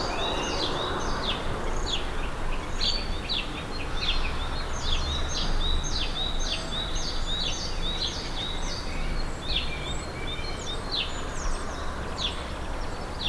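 Many small birds chirping rapidly and continuously in a dense chorus of short, high calls, with a low rumble underneath.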